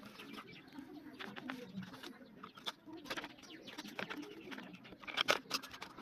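Low cooing of pigeons with scattered sharp clicks and taps, loudest in a quick cluster about five seconds in.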